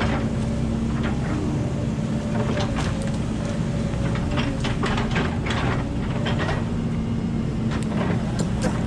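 Volvo 140 excavator's diesel engine running steadily, with repeated metallic clanks and rattles throughout. The sound cuts off suddenly at the very end.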